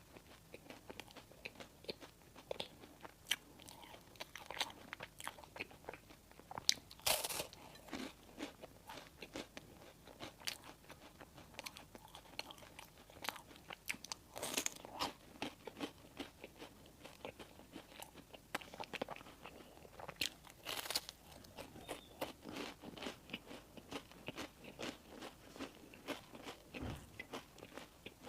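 Close-miked eating of crusty bread and fillings: steady chewing with many small mouth clicks, and three louder crunching bites spread through.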